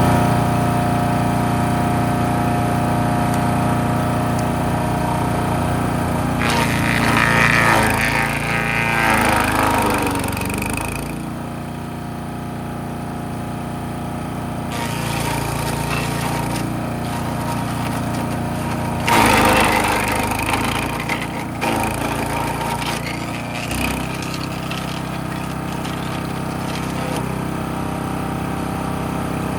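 Wood chipper shredder's small gasoline engine running steadily, with two stretches of branches being chipped, about six seconds in and again near twenty seconds, the splintering loudest then.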